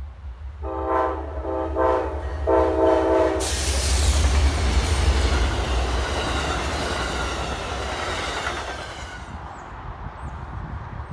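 Amtrak passenger train's locomotive horn sounding a chord in three blasts as the train approaches. The train then passes close by at speed with a loud rush of wheels on rail over a low diesel rumble, fading near the end.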